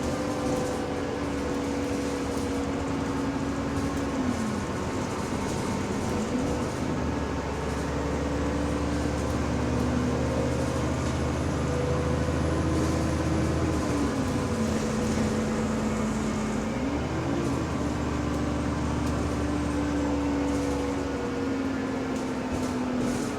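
Bus SLN 10189 in motion, heard from inside: engine and road noise under a steady whine from the differential. The whine drops in pitch twice and climbs back as the bus slows and picks up speed. It is a subtle, weird differential noise.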